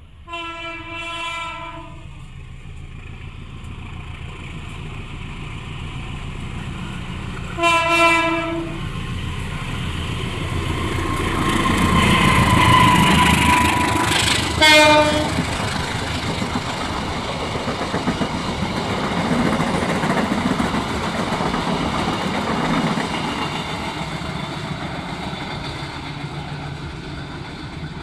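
A train sounds its locomotive horn in two longer blasts and one short one as it approaches, then passes at speed, its wheels rumbling and clacking over the rail joints. A thin steady squeal rides over the rumble as it comes level, and the passing noise then eases off slowly.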